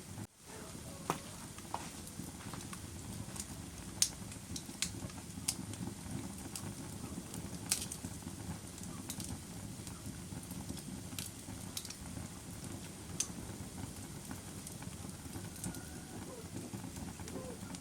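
Wood fire crackling: a steady low rush of burning with sharp pops and snaps at irregular intervals, the loudest about four and eight seconds in. The sound drops out for a split second just after the start.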